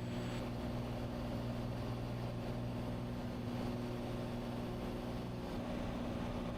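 Cessna 182's piston engine and propeller running steadily in the climb after takeoff: an even drone with a constant low hum.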